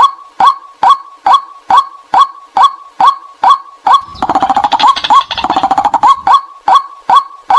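White-breasted waterhen call, a recording used as a lure: a steady series of short downward 'kwak' notes, a little over two a second. About four seconds in, the notes give way to roughly two seconds of rapid, harsher chattering, and then the regular notes resume.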